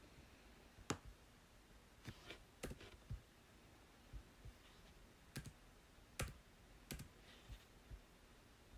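Slow, irregular clicks of computer keyboard keys being pressed, about a dozen scattered across the stretch with pauses between, the loudest about a second in.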